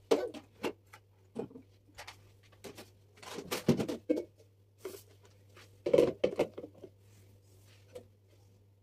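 Irregular light knocks, taps and rustles of containers and pantry items being handled and set down, busiest around the middle, over a faint steady low hum.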